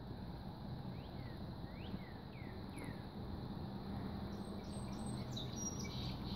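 A few short bird chirps, each a quick curved sweep in pitch, come in a quick series about a second in, then a few thinner high notes near the end. A low steady background rumble runs underneath.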